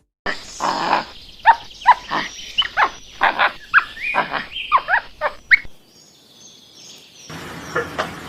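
A rapid series of about a dozen short animal calls, each bending up and down in pitch, over about five seconds. A steadier, higher-pitched noise follows near the end.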